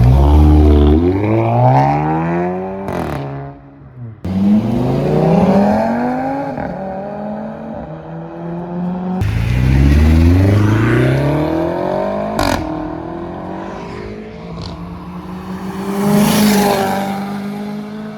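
Car engines accelerating hard, the engine note climbing in several long rising sweeps with sudden drops between them, then settling to a steadier note near the end.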